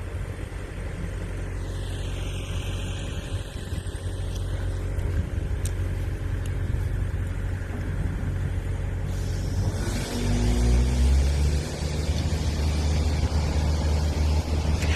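A motor vehicle's engine running with a steady low hum, picking up and rising in pitch about ten seconds in.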